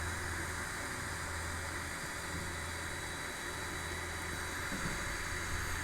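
Packaged heat pump unit running steadily: a low, even compressor hum under the rush of the fan. The unit is working normally again.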